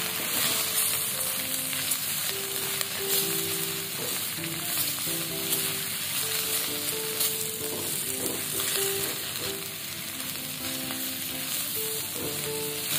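Sliced beef sausage sizzling in hot oil in a wok with egg and aromatics, turned over with a silicone spatula. A soft background music melody plays under it.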